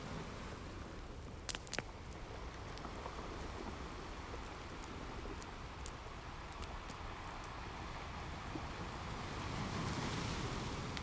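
Wood fire crackling with scattered sharp pops, two strong ones about a second and a half in, over a steady wash of ocean waves. A wave swells up near the end.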